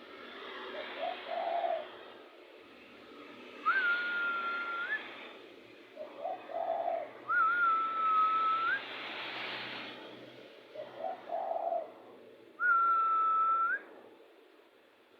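Spotted dove cooing in short phrases about every five seconds. Between the phrases comes a steady, clear whistle about a second long that rises at the end.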